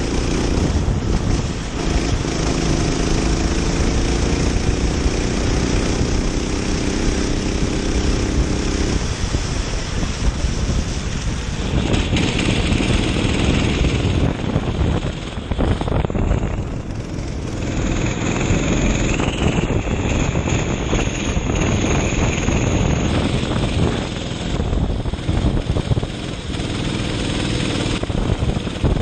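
Kart engine running hard during a race lap, its pitch rising and falling as the driver accelerates and lifts through the corners.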